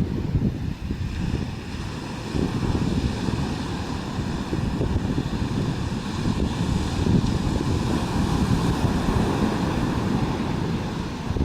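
Wind buffeting the microphone in gusts over the steady wash of ocean surf.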